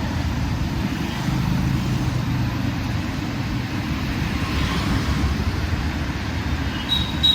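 Busy city street traffic: a steady low rumble of passing vehicles. A shrill high tone starts just before the end.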